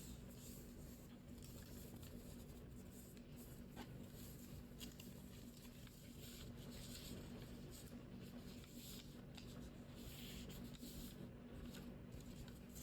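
Faint rustling and small ticks of origami paper being folded and creased by hand, over a low steady hum.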